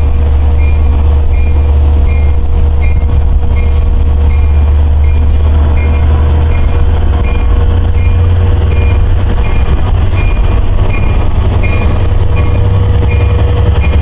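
Long Island Rail Road M-3 electric multiple-unit train running past with a steady low rumble, while a grade-crossing bell rings about twice a second.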